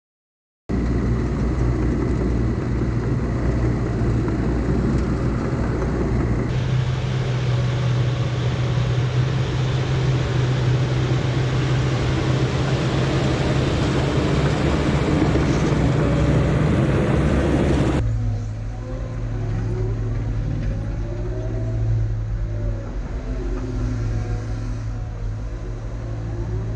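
Diesel engines of heavy earthmoving machines running steadily, in three stretches that change abruptly about six seconds in and about eighteen seconds in. The sound starts about a second in.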